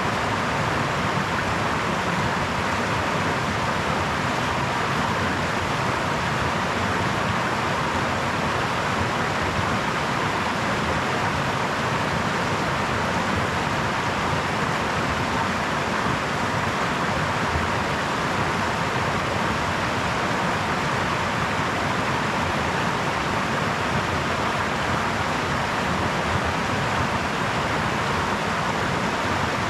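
Babbling brook: water running in a steady, even rush with no breaks or changes.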